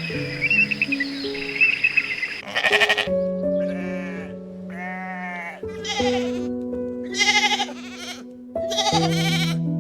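An animal bleating over soft piano and guitar music: about six wavering calls in a row, starting about two and a half seconds in.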